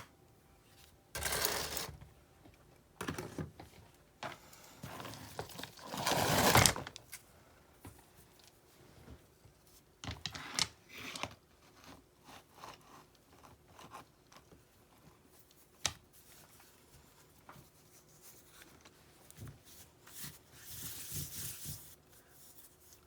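Intermittent scraping and rubbing of a trowel and river rocks being worked into mortar, in short bursts with pauses between. The loudest scrape comes about six seconds in.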